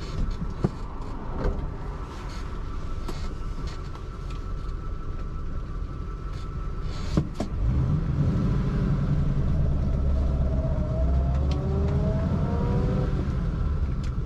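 A Ford's engine running while driving, with road noise. About seven seconds in there is a sharp clunk, after which the engine runs louder and its pitch rises as it accelerates.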